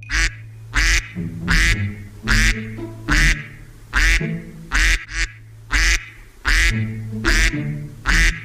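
Duck quacking over and over in an even rhythm, about one quack every three quarters of a second, over background music.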